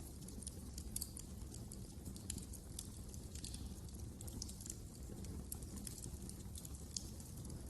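Wood fire crackling, with frequent small irregular pops and snaps over a steady low rumble of the flames.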